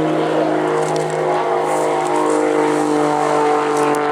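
Aerobatic display aircraft's engine droning steadily overhead, its pitch dropping slightly near the end as it passes.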